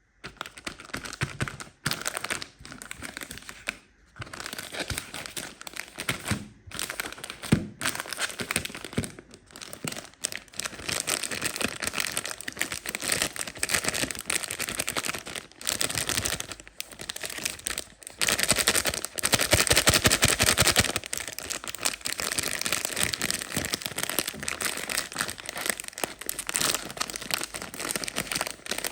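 Plastic ice cream wrappers crinkling and tearing as they are handled and opened, a dense crackle of many small clicks, loudest and most continuous about two-thirds of the way through.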